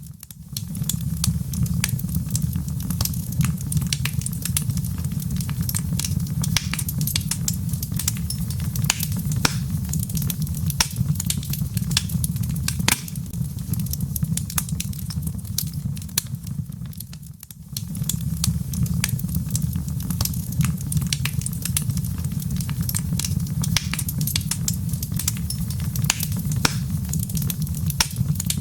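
Wood fire burning in a fireplace: logs crackling with a steady stream of sharp pops over a low, even rumble. The sound briefly drops away about seventeen seconds in.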